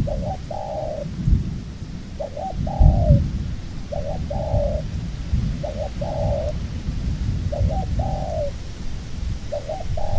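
A dove cooing over and over, about six calls, each a quick stuttered note followed by a longer falling coo, repeated roughly every two seconds. Low rumbling and a few dull thumps sit underneath.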